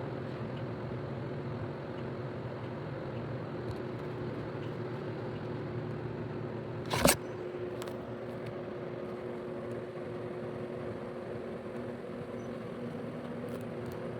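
Steady mechanical hum with two held tones, and a single sharp click about seven seconds in.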